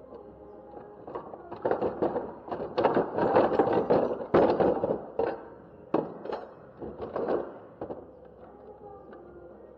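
A quick, irregular clatter of knocks and clicks from tools and metal transmission parts being handled during disassembly, thickest in the middle and dying away near the end, over faint background music.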